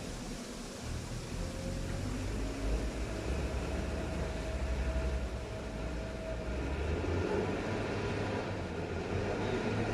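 Heavy machinery engines running, a steady low rumble, with a faint steady whine for a few seconds in the first half.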